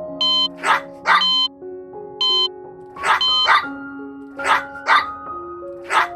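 Music with chiming notes, over a dog barking in short pairs of barks that recur about every one and a half seconds.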